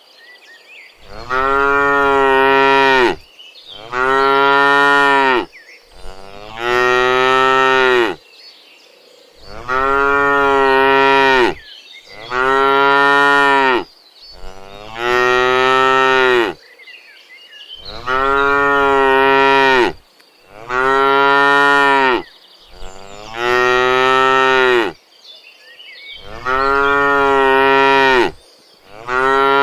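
A cow mooing over and over, about eleven long moos each around two seconds, spaced evenly about every two and a half seconds. Each moo rises and then falls in pitch.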